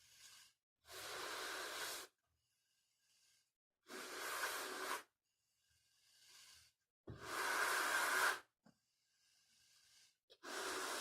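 A balloon being blown up by mouth: four long puffs of breath, each about a second long and roughly three seconds apart, with quieter in-breaths between them.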